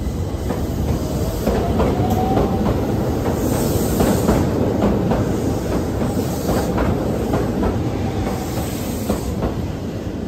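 Keihan 800 series train running along the platform: the wheels clatter over the rail joints, with short wheel squeals and bursts of hiss. The sound eases off near the end as the last car leaves.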